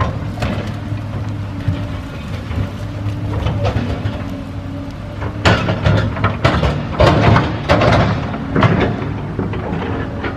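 A large bonfire burning, with a steady low rumble under frequent sharp cracks and pops that come thickest in the second half.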